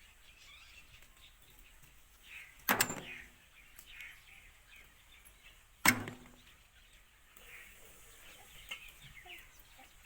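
Faint parrot chirps and twitters, broken twice by a sharp, loud click about three seconds apart.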